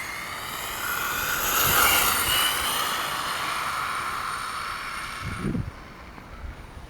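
Redcat Rampage MT 1/5-scale RC truck's small petrol two-stroke engine revving as the truck runs. Its pitch rises to a peak about two seconds in, fades, then cuts off at about five and a half seconds. The owner says a knock from the front differential, whose crown gear is missing a tooth, can still be heard.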